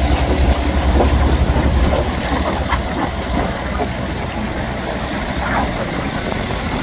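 1966 Chamberlain 9G tractor's diesel engine running hard with a strong low pulsing beat, easing off slightly about two seconds in.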